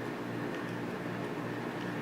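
Steady low electrical or mechanical hum with faint hiss, with no distinct clicks or handling noises.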